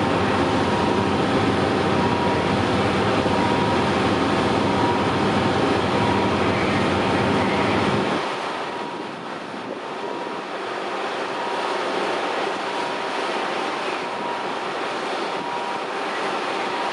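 Diesel train engine running steadily with a faint steady whine. About eight seconds in, the deep rumble cuts off suddenly and the sound becomes a little quieter and thinner.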